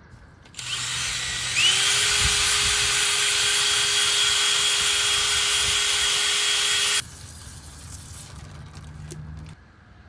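Handheld power tool running: a hiss starts, then the motor whine rises and levels off, runs steadily for about five seconds, and cuts off abruptly.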